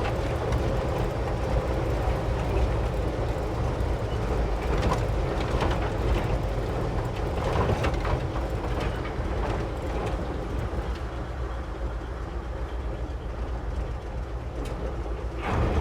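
Old Ford F600 dentside truck driving on a rough road, heard from inside the cab: a steady engine and road drone with scattered knocks and rattles as it rides over the bumps.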